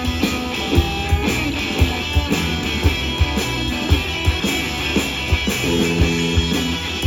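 A live blues band playing an instrumental boogie: electric guitar over a steady drum beat.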